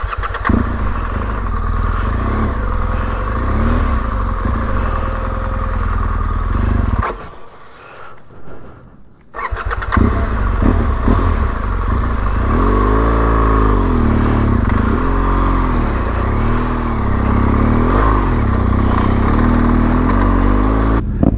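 Adventure motorcycle engine running. About seven seconds in it drops away for a couple of seconds, then picks up again. After that the revs rise and fall several times.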